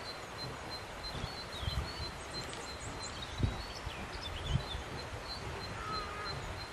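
Small birds chirping and calling, with a high short note repeated steadily through it, over a steady outdoor hiss; a few brief low thuds, the loudest about halfway through.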